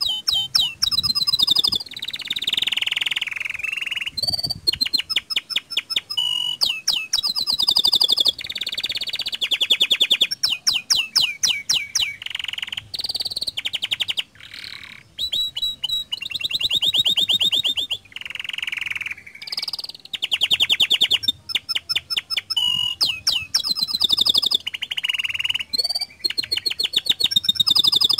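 Domestic canary singing a long, continuous song of rapid trills, buzzy rolls and whistled notes, with hardly a pause.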